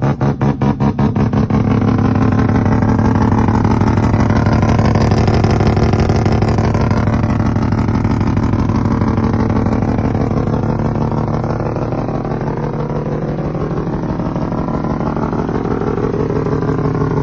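Mazda rotary engine running, lumpy and pulsing at about four beats a second for the first second or so, then settling into a smoother, steady run held to the end.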